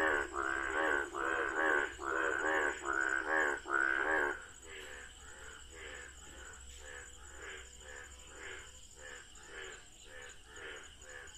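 Frogs croaking: a loud run of short, rattling croaks, about two a second, for the first four seconds, then a fainter chorus of croaks carrying on. A steady high insect trill runs underneath.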